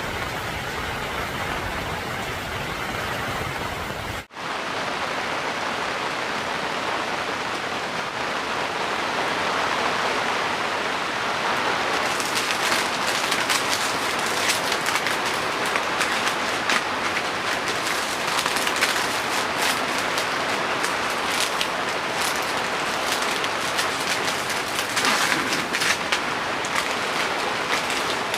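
Heavy rain falling steadily. The sound cuts briefly about four seconds in, and from about twelve seconds in, close drops hit a surface as many sharp ticks over the downpour.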